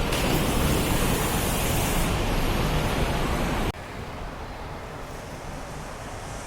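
A steady, loud rushing noise that drops suddenly to a quieter steady hiss a little past halfway through.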